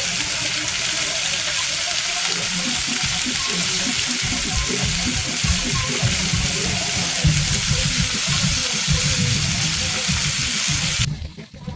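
Chicken frying in hot oil with a steady, loud sizzle and some low knocking beneath it; the sizzle cuts off suddenly about eleven seconds in.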